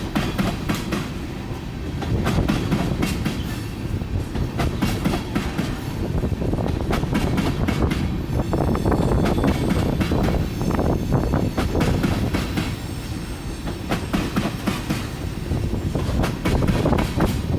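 Freight train of oil tank cars rolling past, with a steady low rumble and rapid clickety-clack of wheels going over the rail joints.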